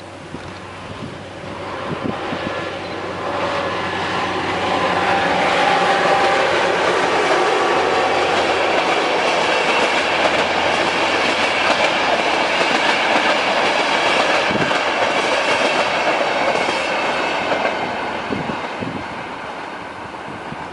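A passenger train passing close by: the sound builds over the first few seconds, stays loud through the middle with repeated clicks of the wheels over rail joints, and fades toward the end.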